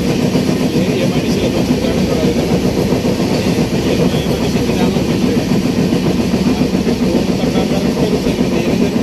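Steady running noise of a moving train, heard from inside the coach.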